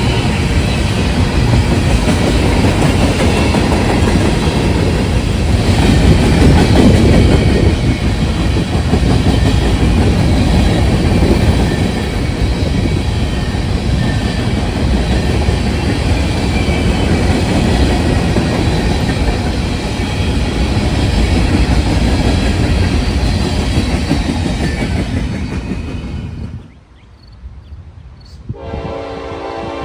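A train running by, loud, with the rumble and clatter of wheels on the rails. About 26 s in the noise cuts off abruptly, and near the end a locomotive horn starts sounding a steady chord.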